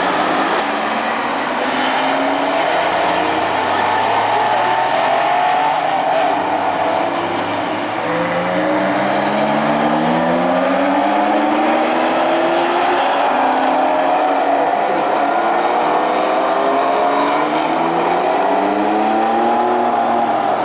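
Porsche engines accelerating hard on a race track. Several cars are heard at once, their engine notes climbing in pitch again and again as they pull up through the gears.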